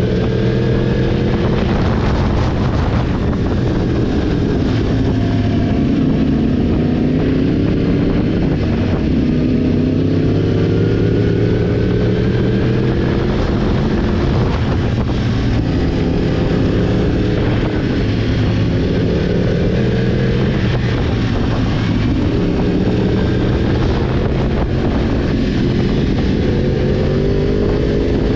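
Sport motorcycle engine running under way at steady load. Its pitch climbs gradually and drops back several times as the bike accelerates and shifts, with road and wind rush underneath.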